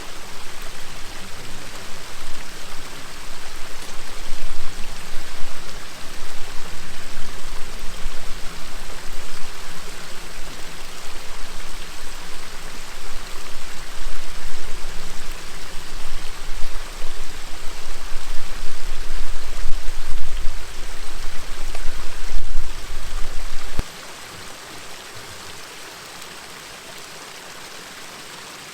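River water flowing steadily, with a heavy low rumble that rises and falls over it and cuts off suddenly about four-fifths of the way through, leaving only the quieter rush of the stream.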